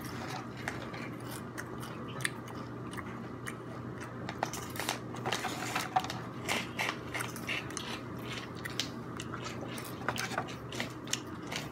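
Close-up chewing and crunching of food, with irregular crackles and clicks as fingers pick at the foam takeout container and paper wrapper.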